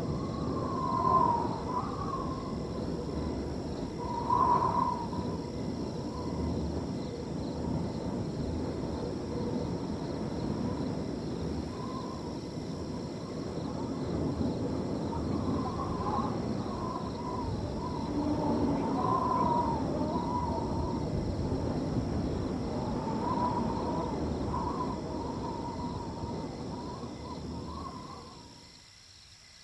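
Wind blowing over a field in a steady rush, with crickets trilling as a thin, constant high tone and short repeated calls from an animal, an owl-like hoot, on top. The wind dies away suddenly about a second before the end, leaving the crickets.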